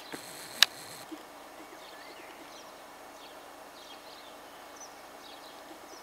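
Faint bird chirps scattered over a steady outdoor hiss, with one sharp click about half a second in.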